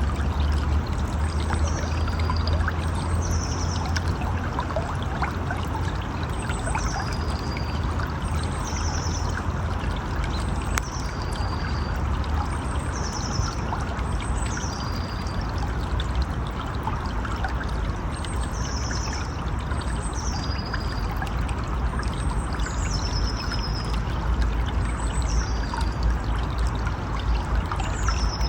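River water flowing and splashing steadily, with a low rumble underneath. Short high chirps repeat every second or two over the water.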